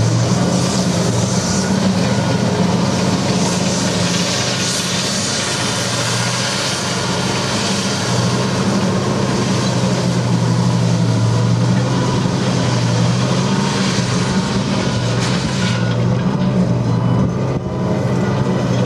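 The Type 94 waterfront mine-laying vehicle's diesel engine running steadily under way, a deep steady drone, with a loud hiss over it that eases about sixteen seconds in.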